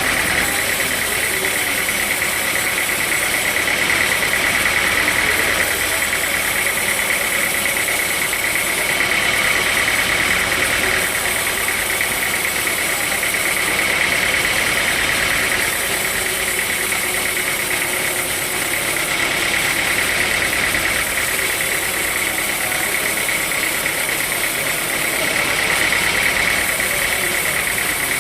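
Sawmill saw running steadily through hard timber, a loud high whine over machine noise that swells and eases every few seconds.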